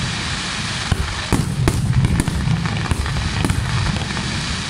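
Aerial fireworks shells bursting in quick succession: a string of sharp bangs, several to a second at times, over a continuous rumble and crackle.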